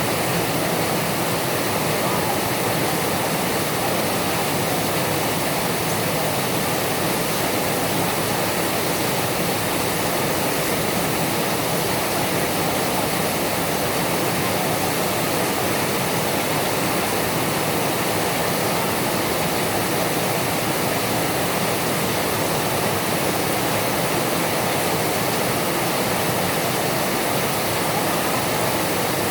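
Heavy rain falling: a loud, steady, even rush of rain noise that does not change.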